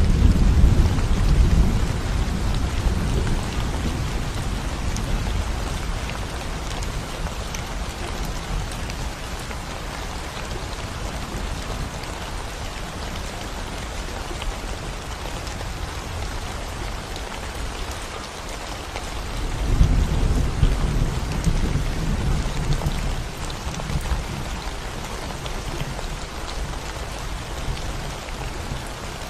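Steady rain falling on a concrete road, with low rolls of thunder: one fading out over the first few seconds, another starting about twenty seconds in and rumbling away over several seconds.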